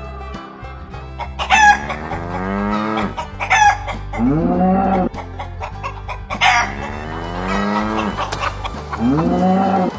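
Chickens and a rooster calling again and again, each call a sharp squawk or a long call that rises and then falls in pitch, over steady background music.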